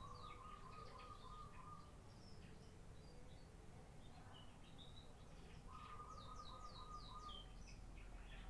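Domestic canary singing faintly: a rapid trill held for about two seconds at the start and again in the second half, with quick high falling notes and short chirps between.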